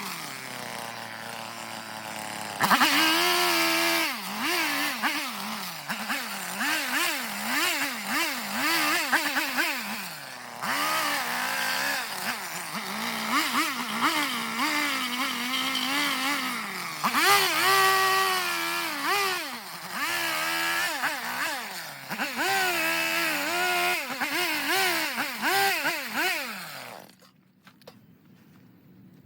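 Chainsaw cutting eastern red cedar, its engine speed rising and falling over and over as the throttle is squeezed and eased during carving. It stops about two seconds before the end.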